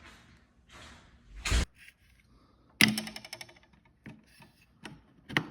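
Clicks, knocks and rubbing from working a Bitzenburger Dial-O-Fletch fletching jig while an arrow is fletched. A loud knock comes about a second and a half in, and a sharp clack with a quick rattle of ticks comes near the middle. A few lighter clicks follow.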